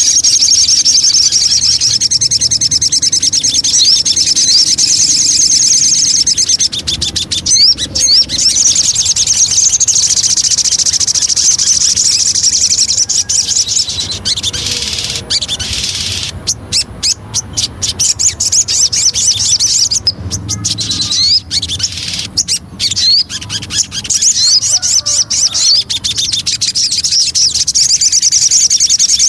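Sogon songbird singing a rapid, continuous chattering song with short rising whistled notes, breaking up into shorter phrases around the middle before running on steadily again.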